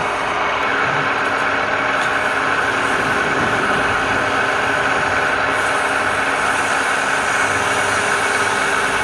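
Wood lathe motor running steadily, a constant machine drone with a high whine.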